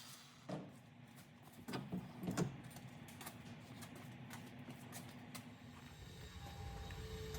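A few faint knocks and clicks, the clearest about half a second in and around two seconds in, over a low steady hum.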